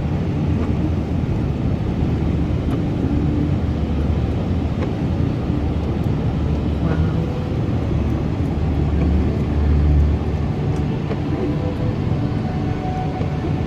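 Steady low rumble of a car driving on a snowy road, engine and tyre noise without a break.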